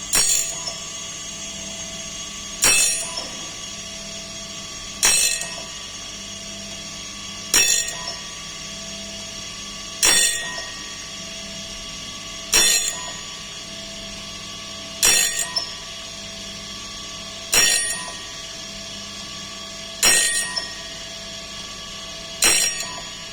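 Automatic saw blade sharpening machine running with a steady motor hum, broken by a sharp metallic clack with a brief ring about every two and a half seconds as it works through its repeating tooth-by-tooth cycle.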